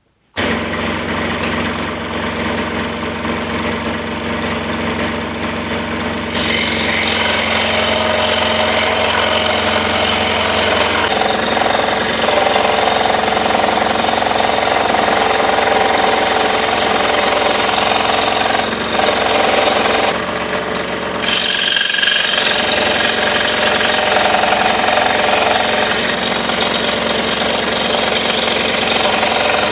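Scroll saw running and cutting a 1/4 inch cherry board, a steady rapid mechanical chatter of the reciprocating blade that starts abruptly and grows harsher about six seconds in as the blade works into the wood.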